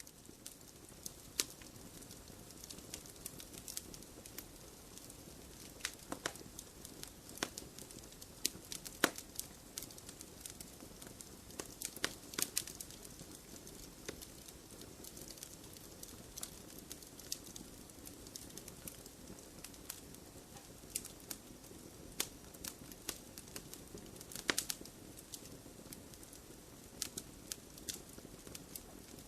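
Wood fire burning in a fireplace: a steady low hiss with irregular crackles and sharp pops from the burning wood.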